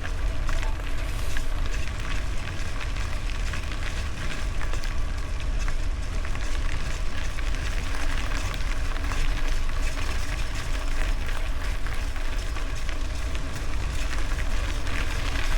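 Wind rumbling on the microphone with the constant crackle and rattle of a bicycle rolling over gravel.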